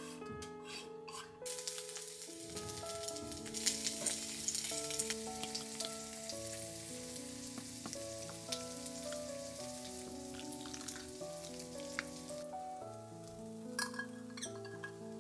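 Food frying in hot oil in a frying pan: an even sizzle that starts about a second and a half in and eases off near the end. Soft background music plays throughout.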